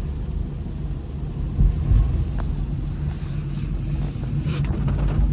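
Inside a Honda City car on the move: steady low engine and road rumble, with two low thumps about one and a half to two seconds in.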